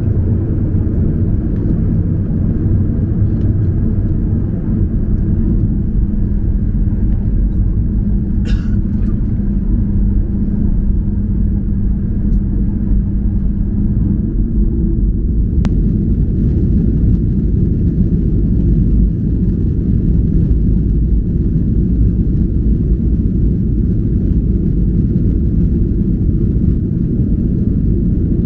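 Steady low rumble and hum of a Boeing 737-800's engines and airframe, heard from inside the cabin. A brief higher sound about eight seconds in and a single sharp click near the middle.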